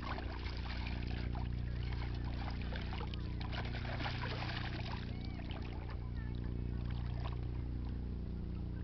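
Water sloshing and splashing with gritty scraping as a sand scoop digs in shallow lake water on a deep metal-detector target, busiest in the first five seconds, over a steady low hum.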